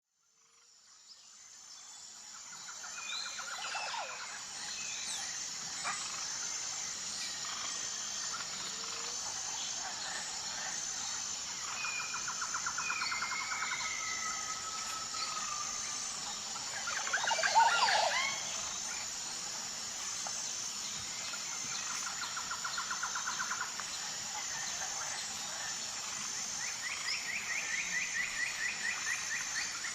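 Tropical birds singing: several trills and slurred whistles, with the loudest flurry of rising and falling calls about halfway through. A steady, evenly pulsing high-pitched drone runs underneath, and the sound fades in over the first few seconds.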